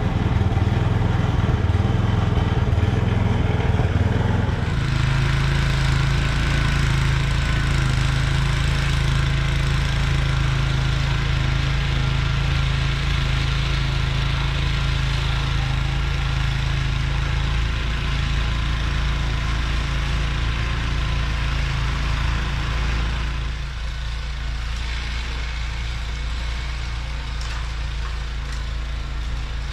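Snowblower engine running steadily, with a hiss over it. The engine note shifts about four seconds in, and the sound drops a little near the end.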